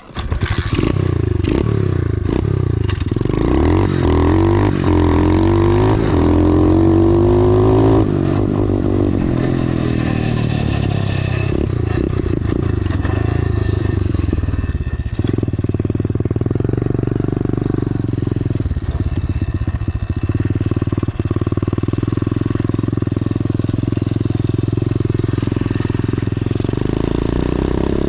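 Dirt bike engine accelerating hard, its pitch climbing through several gear changes over the first eight seconds, then running on at a steadier pitch.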